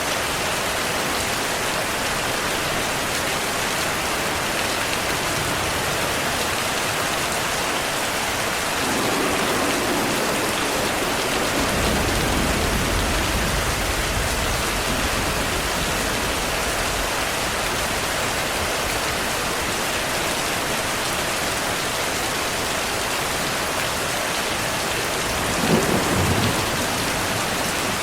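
Steady rain falling, with a low roll of thunder building about a third of the way in and lasting several seconds. A short, sharper thunder crack comes near the end.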